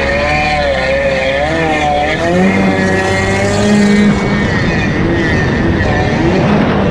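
Stand-up jet ski engine running under way, its pitch rising and falling repeatedly as the throttle changes, over a steady rush of water and wind.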